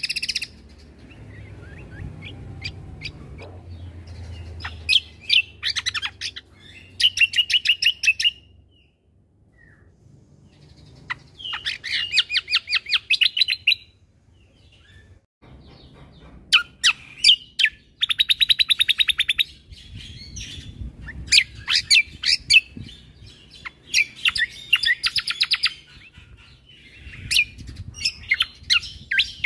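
Cucak kombo (kecial kombo) songbird singing in phrases of fast, rapidly repeated high chattering notes, each phrase lasting one to a few seconds with short pauses between them.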